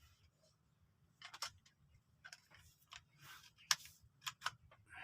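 A few faint, scattered clicks and taps.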